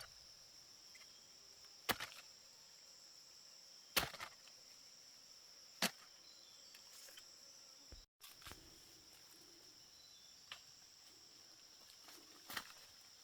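Steady high-pitched insect chirring, with a sharp click or knock about every two seconds.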